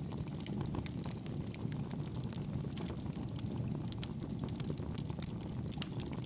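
Wood fire burning in a fireplace: a steady low rush of flame with many small, sharp crackles and pops.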